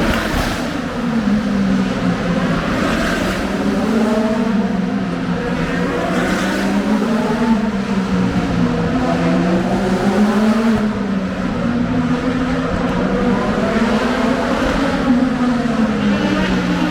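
Race car engines running on a track, their pitch rising and falling over and over as the cars accelerate, brake and pass.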